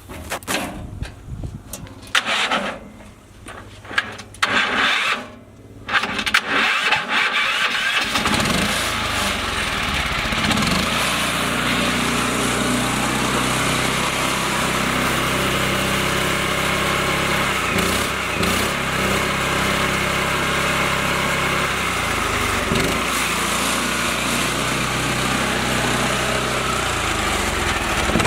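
Mini tractor engine starting: short, broken bursts for the first several seconds, then from about eight seconds in it settles into steady running.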